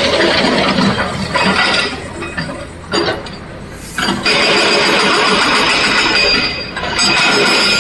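Excavator engine working while broken rock pours and clatters into a steel dump truck body, in several surges with a brief lull a little before the middle and the longest, loudest pour in the second half.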